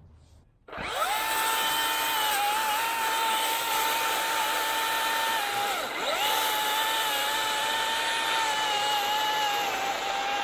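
Battery-powered pruning chainsaw (Milwaukee M18 Hatchet) starting about a second in and running at a steady high whine, its pitch dipping briefly about six seconds in before picking back up.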